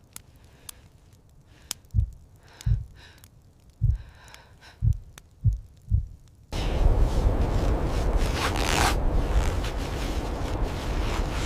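About six soft, low thuds at uneven spacing, then a sudden cut, some six seconds in, to loud, steady blizzard wind.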